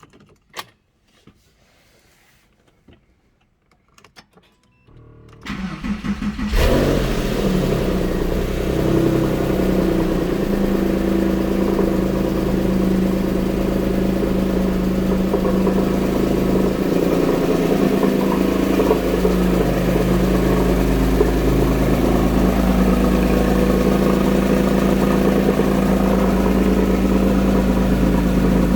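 A few faint clicks, then the starter cranks for about a second and the 2005 Porsche 911 (997) Carrera's 3.6 M96 water-cooled flat-six catches on a cold start. It flares up and settles into a steady, loud fast idle.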